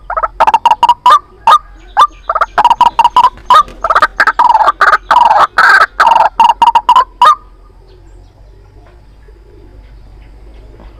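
White-breasted waterhen calling: a rapid run of repeated notes, several a second, that stops about seven seconds in. It is the decoy call recording used to lure the birds into traps.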